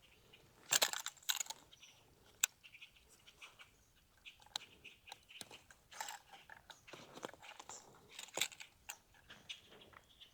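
Irregular clicks, taps and rustles of gear and a caught fish being handled in a kayak, with the sharpest snaps about a second in and again near two and a half seconds.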